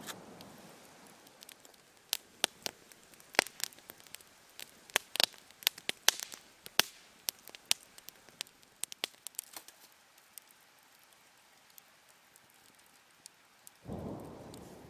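Irregular sharp pops and crackles from a campfire, many in quick succession a few seconds in, then thinning out. Near the end a sudden hiss starts and fades.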